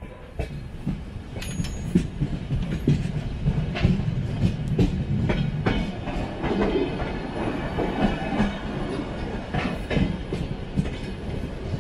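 A train running on rails: a heavy steady rumble with irregular clattering knocks as the wheels pass over rail joints.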